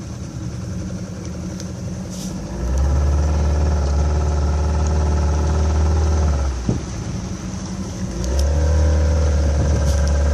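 Motorboat engine running at low throttle, then opened up about two and a half seconds in. It eases back to idle around six and a half seconds and is opened up again a couple of seconds later.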